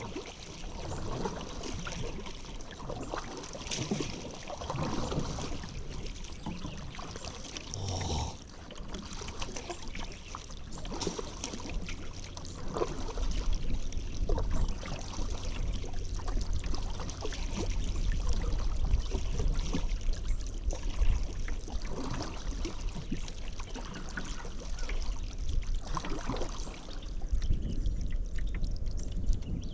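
Paddle strokes dipping and splashing in river water, with water trickling off the blade between strokes. A low rumble builds from about halfway in.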